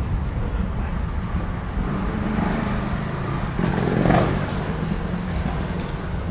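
A road vehicle passing close by on a city street, its sound swelling to a peak a little past the middle and then fading, over a steady low rumble of traffic.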